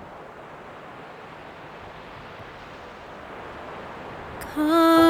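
A steady soft wash of noise, then about four and a half seconds in a woman's singing voice comes in loudly on a held, wavering note.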